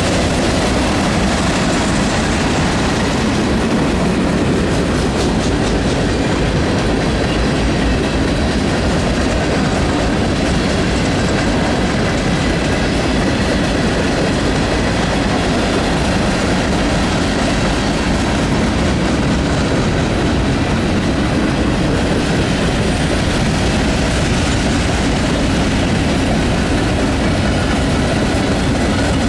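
Railcars of a train rolling past on the track: a loud, steady rumble of steel wheels on rail with a clickety-clack running through it.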